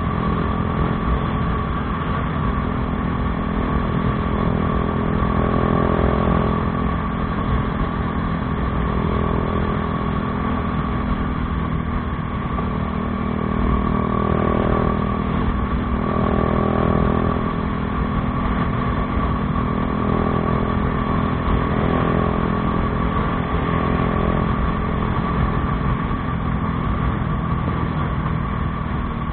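Bajaj Dominar 400's single-cylinder engine running through an aftermarket Akrapovič exhaust: a steady drone with a few gentle swells in level.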